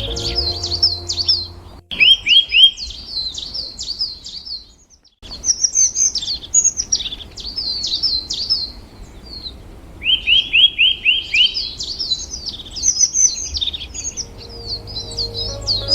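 Songbird singing in repeated high phrases: a quick run of four or five rising notes followed by rapid warbling trills, broken off by a brief gap about four to five seconds in. Soft background music comes in under it near the end.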